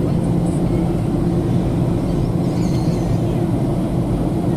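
Steady cabin noise of a Boeing airliner's jet engines and airflow, a constant low hum with no change in level.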